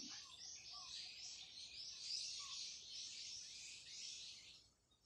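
Birds chirping: a dense, quick run of high chirps that breaks off shortly before the end.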